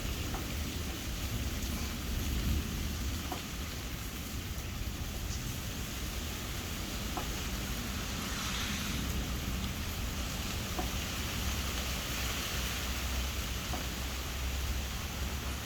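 Steady rain with scattered faint drops ticking, over a low, continuous rumble of distant thunder. A louder thunder roll is dying away at the start.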